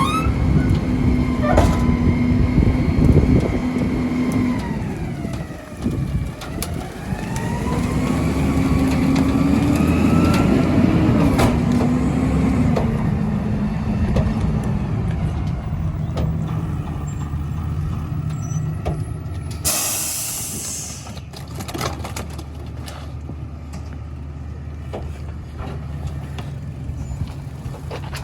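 Garbage truck engine running under the load of packing tree waste: the revs dip about 5 seconds in, climb again with a whine, then settle to a lower steady hum. About 20 seconds in there is a short burst of air hiss, like an air brake releasing.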